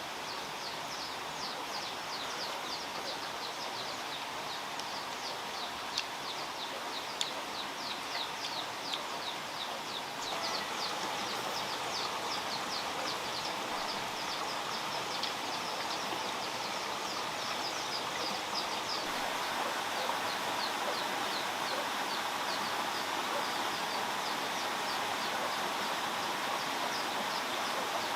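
Outdoor ambience with a steady hiss and a fast run of short, high, falling chirps from a small animal, several a second, going on throughout. A few faint clicks come between about six and nine seconds in, and the hiss grows a little louder about ten seconds in.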